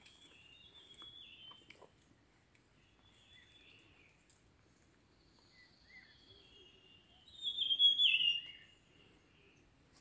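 Wild forest birds singing: several short warbling and chirping phrases, with a loud, fuller burst of song about seven to eight and a half seconds in.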